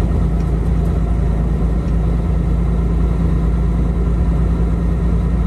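Semi truck's diesel engine and road noise droning steadily, heard inside the cab while driving.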